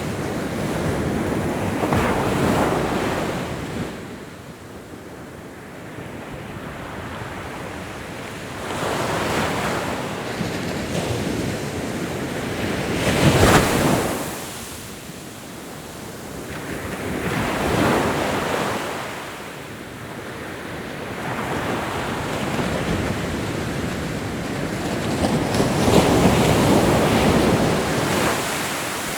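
Ocean waves breaking and washing up the shore, the rush of surf swelling and falling away every few seconds; the biggest surges come about halfway through and near the end.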